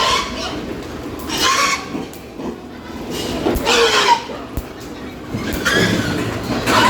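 Pigs squealing: loud, high cries one after another, about every one to two seconds, with a few sharp knocks between them.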